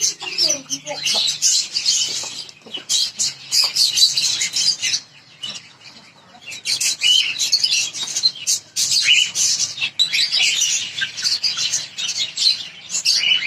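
Flock of small caged birds chirping and chattering continuously, many calls overlapping, with a brief lull about five to six seconds in.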